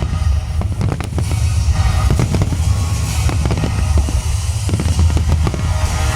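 Aerial fireworks display: a rapid series of bangs and crackling bursts, over loud music from the show's soundtrack with a heavy bass.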